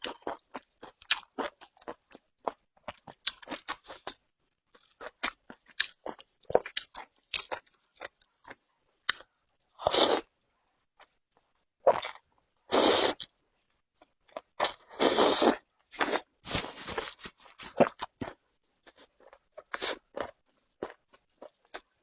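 Close-miked crunching and chewing of quick-boiled shredded beef tripe coated in sesame paste: irregular crisp crunches, with a few longer noisy stretches now and then.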